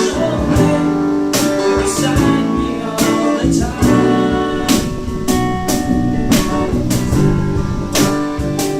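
A band playing at practice: loud guitar-led music with sharp, ringing hits about once or twice a second.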